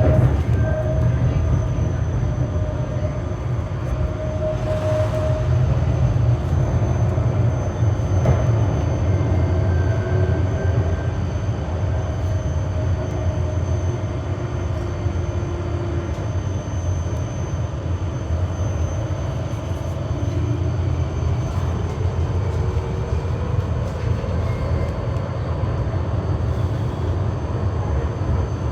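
Berlin GTZO low-floor tram running along the track, heard from inside the car: a steady low rumble of wheels on rails with a faint whine that rises and falls in pitch as it speeds up and slows.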